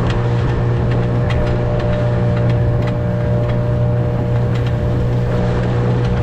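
Dinghy outboard motor running steadily at a constant speed, with a hiss of water and wind over it.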